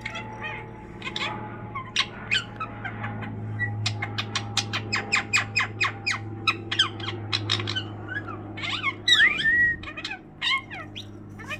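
Pet budgerigars chattering. A fast run of short chirps, about five a second, fills the middle, and warbling whistled notes follow near the end, over a steady low hum.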